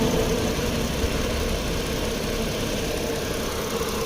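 Rotary vane vacuum pump running with a steady mechanical hum.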